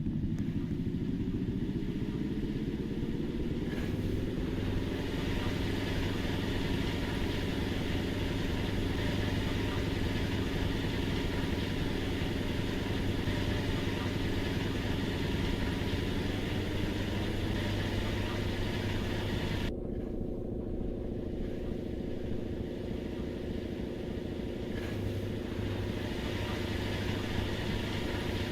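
Washing machine motor spinning the drum, its whine rising in pitch over the first few seconds, holding steady, then rising again to a higher speed a little past halfway: the spin cycle ramping up in steps.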